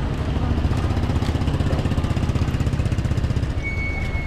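A small engine, likely a motorbike's, running steadily at low revs with a rapid even pulse. A brief high steady tone sounds near the end.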